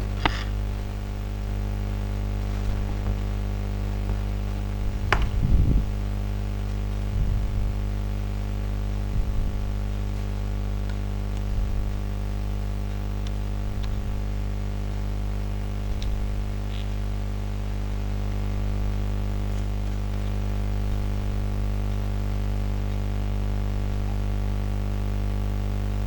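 Steady electrical mains hum, with a few short scrapes and clicks of a smartphone battery pack's casing being pried open by hand. The clearest scraping comes about five seconds in.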